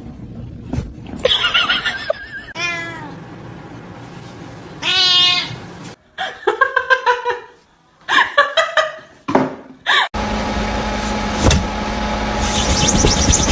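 Domestic cats meowing: several separate meows in short bursts, one falling in pitch, with abrupt changes between them. Near the end they give way to a steady hiss-like noise.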